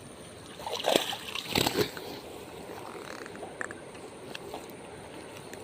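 Water splashing in two short bursts about a second in, over a low steady background.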